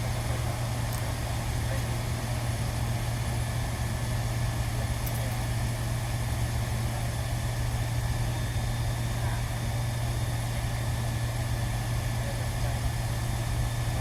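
A steady low machine hum with a hiss over it, running evenly without change.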